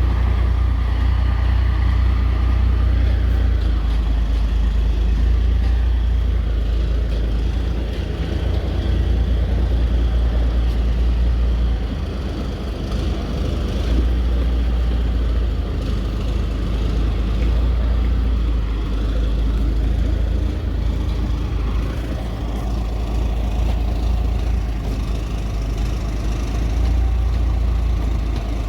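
Truck engine running steadily with a deep rumble while the truck and trailer are maneuvered and backed in to dump a load of crushed concrete; the rumble eases briefly twice.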